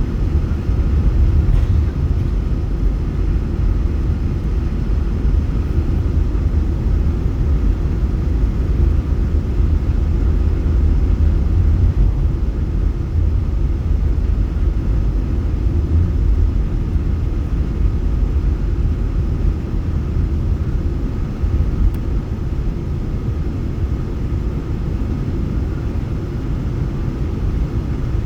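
Boeing 747-8 airliner heard as a steady low rumble, with a faint steady whine above it.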